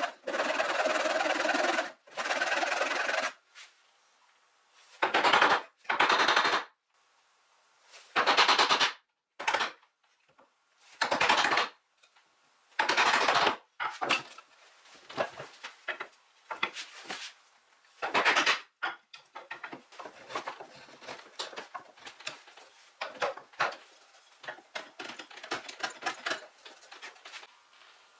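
A rapidly repeating power tool run in several short bursts of about a second each, followed by a string of light knocks and clicks.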